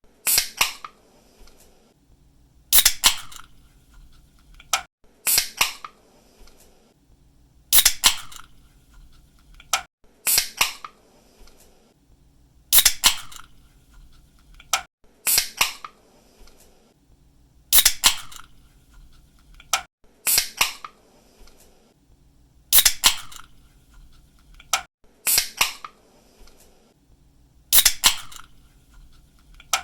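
An aluminium drink can's pull tab cracked open again and again, about once every two and a half seconds. Each opening is a sharp snap followed by a short hiss of escaping gas.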